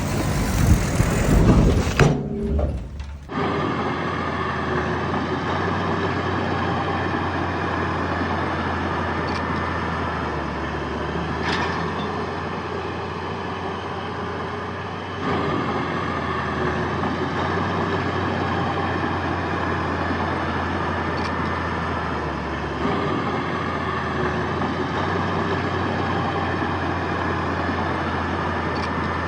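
Heavy diesel engine of earthmoving machinery running steadily under load, its level stepping up about halfway through. It follows a louder, rougher noise in the first two seconds that cuts off abruptly.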